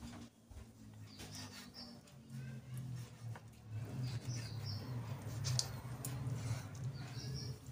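A bird chirping in short phrases of a few high notes that recur every few seconds, over a steady low hum. A couple of faint clicks of a knife on a wooden cutting board come near the end.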